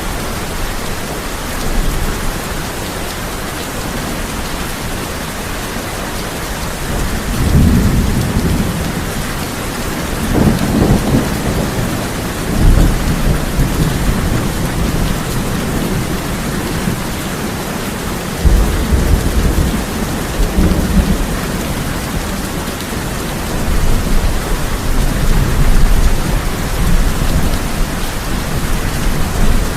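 Steady rain drumming on a tin roof, with thunder rolling and rumbling several times.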